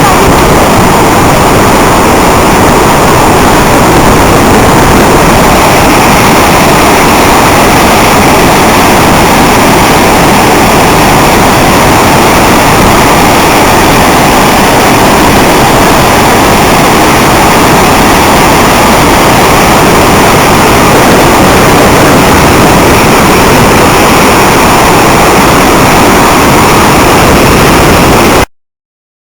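Swollen, flooding river rushing and spilling over a small waterfall: a loud, steady roar of water that cuts out briefly near the end.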